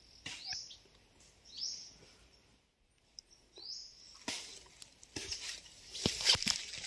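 A bird repeating a short, high, upward-sweeping call every second or two. From about four seconds in, footsteps rustle and crackle through grass and dry leaves.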